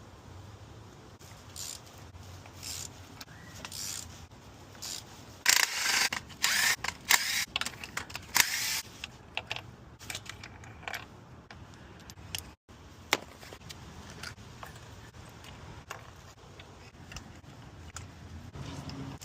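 Hand tools and metal parts being handled during engine repair work: irregular clicks and clinks, with a burst of louder clattering and rattling about six to nine seconds in.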